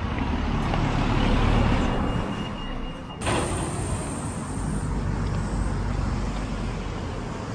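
Road traffic: a motor vehicle passing, swelling to its loudest about a second and a half in, then steady traffic noise after an abrupt break.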